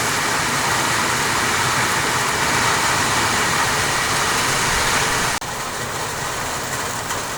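Steady hiss of heavy rain falling. About five and a half seconds in it cuts abruptly to a slightly quieter rain sound.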